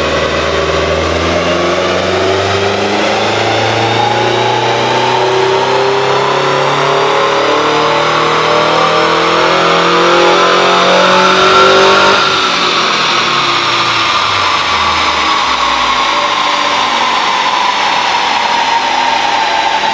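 Turbocharged Subaru Crosstrek's FB20 flat-four making a full-throttle dyno pull. The engine note climbs steadily for about twelve seconds and is loudest at the top. Then the throttle closes and the revs fall gradually.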